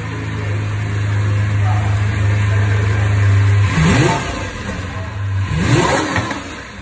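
Lamborghini supercar engine idling, then revved twice on a cold engine: two quick rises in pitch, about four seconds in and again near six seconds, each falling back to idle.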